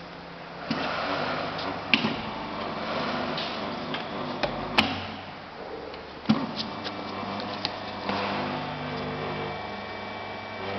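Hydraulic butt fusion welding machine running with a steady hum, with sharp metal knocks and clicks as it is worked, four of them standing out.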